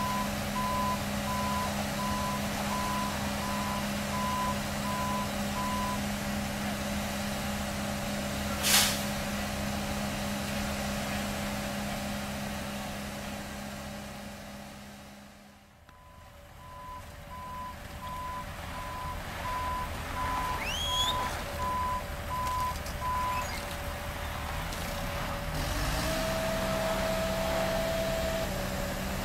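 Reversing alarm of heavy construction machinery beeping at about one beep a second over a running engine. The beeping stops about six seconds in, with a single sharp knock a few seconds later, then comes back for several seconds after a short lull midway. The engine note changes near the end.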